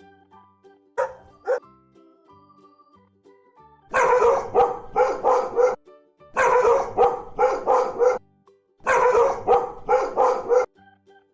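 A dog barking: two single barks about a second in, then three runs of quick repeated barks with short gaps between them.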